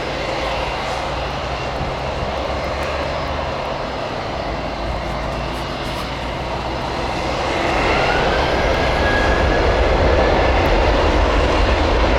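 Jet airliner engines spooling up for a takeoff roll: a steady rush that grows louder about two-thirds of the way through, as a whine glides upward. A low rumble of wind on the microphone sits under it.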